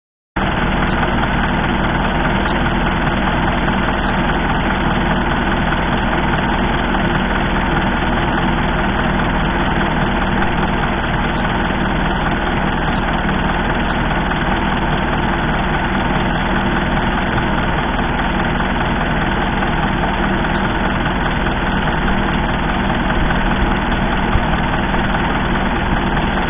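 IFA W50 L truck's four-cylinder diesel engine, under a DL 30 turntable ladder, running at a steady, unchanging speed without revving.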